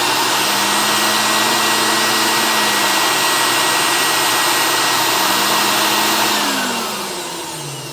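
Commercial vacuum cleaner's motor running loud and steady with a whine, then winding down in pitch and fading near the end as it is switched off. The owner says the machine has an electrical short and calls it "trying to die".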